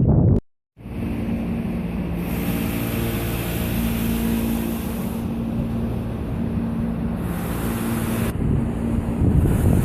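Steady drone of a moving vehicle with a low hum, cutting in after a brief gap, its hiss getting louder and softer a few times.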